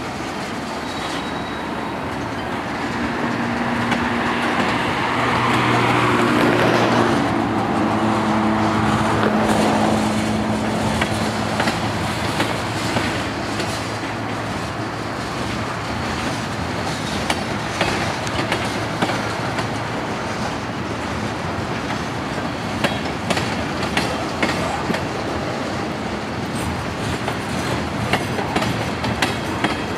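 Loaded freight train of tank cars rolling past: a continuous rumble and hiss of steel wheels on rail, with clickety-clack from the wheels crossing rail joints. A steady low drone swells between about four and ten seconds in, and sharp clicks come thick and fast in the second half.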